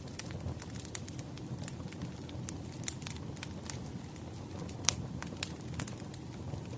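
Wood fire crackling: irregular sharp pops and snaps over a low steady rumble of the flames, with one louder pop about five seconds in.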